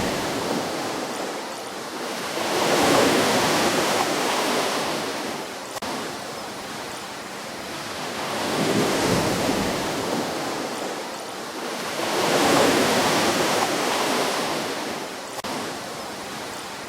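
Ocean waves breaking and washing up a beach, each surge swelling and then fading; three waves peak in turn, several seconds apart.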